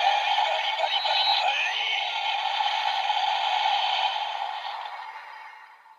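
Tinny electronic music and sound effects from a transformation toy's small speaker, fading away over the last two seconds.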